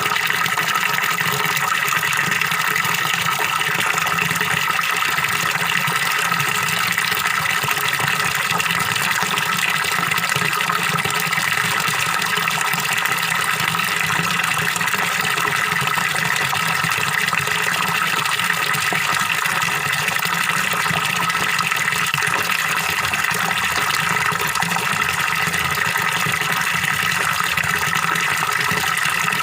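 Small waterfall pouring steadily into a fish pond: a constant, even gurgling splash of falling water.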